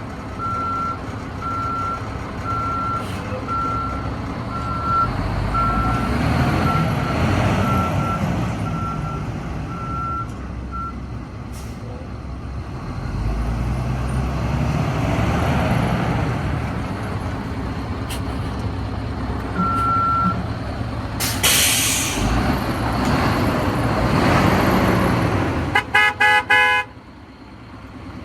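2008 GMC TopKick C7500 truck with an Isuzu diesel backing up, its reversing beeper sounding about three times every two seconds for the first ten seconds or so, while the engine revs up and down. About two-thirds through there is a short hiss of air. Near the end come four quick horn toots, and the diesel then settles to a lower idle.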